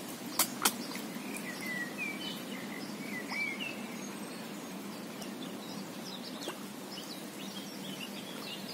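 Small birds chirping, with short repeated calls over a steady low outdoor background hum. Two sharp clicks come about half a second in.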